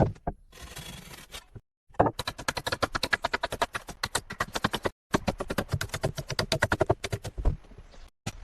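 Quick repeated scraping strokes of hand work, about nine a second, in two long runs broken by a short pause halfway, after two brief hissy scrapes at the start.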